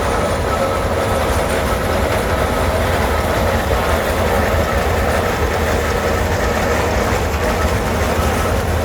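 Antique engines on parade running in a steady, loud mechanical rumble with a hiss over it.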